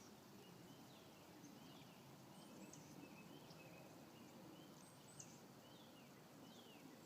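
Near silence with many faint, short bird chirps repeating, about two a second.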